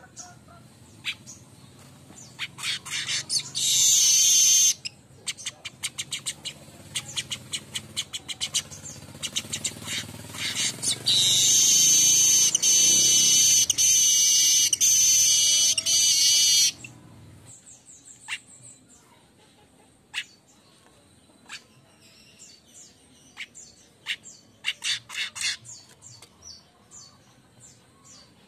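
Manyar kembang weaver singing: rapid clicking chatter that breaks into long, loud, wheezy buzzes, twice, then trails off into scattered soft chirps for the last ten seconds or so.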